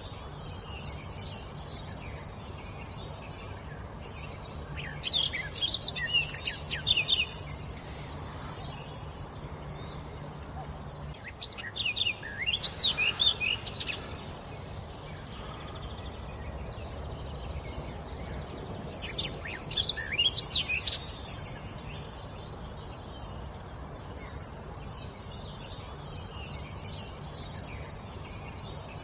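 A songbird singing in three short phrases of quick, high chirping notes, spaced several seconds apart, over a steady low background hum.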